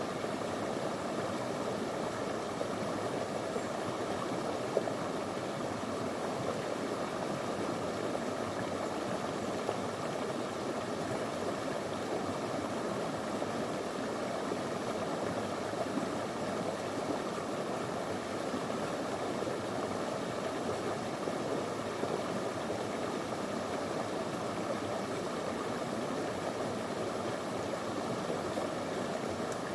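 A small, shallow river flowing over stones: a steady, even rush of water.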